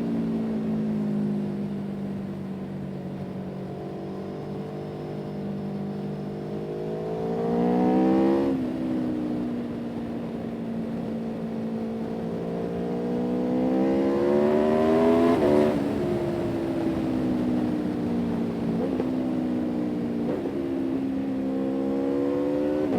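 A vehicle engine pulling through the gears. Its pitch climbs, falls sharply at a gear change about eight seconds in, climbs again to a second shift around fifteen seconds, then holds fairly steady, rising and falling a little.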